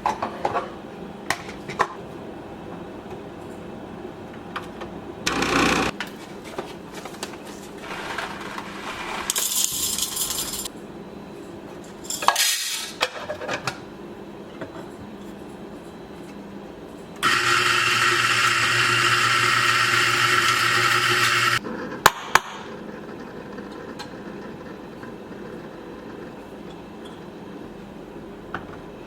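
Kitchen handling sounds: scattered clinks and knocks of dishes or utensils, then a small electric appliance motor running steadily for about four seconds, with a low hum under a loud whirr.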